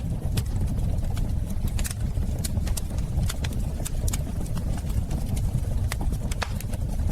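Wood fire in a fireplace crackling: a steady low rumble of burning with irregular sharp pops and snaps.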